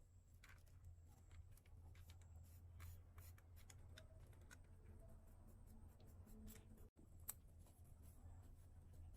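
Near silence: faint, scattered scraping and clicking over a low, steady hum.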